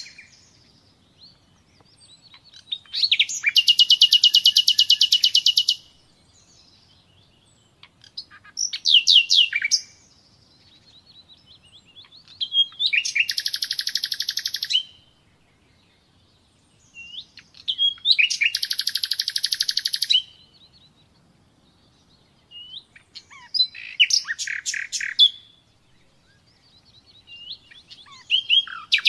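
Nightingale singing: about six phrases of fast repeated notes and rapid trills, each a couple of seconds long, with short pauses between them.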